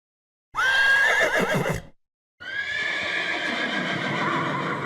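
Horse whinnying: a call of about a second and a half with a wavering high pitch that drops away at the end. After a short gap comes a longer, steadier horse sound lasting about three seconds.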